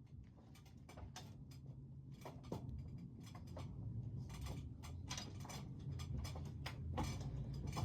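Irregular clicks, taps and scrapes of asphalt roofing shingles being worked loose and pried at by hand, getting busier and louder towards the end, over a faint steady low hum.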